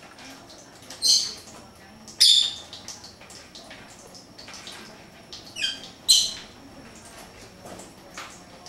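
Pet birds calling: four short, loud, high calls, about a second in, just after two seconds, and a close pair near six seconds, with faint chirps and small clicks between.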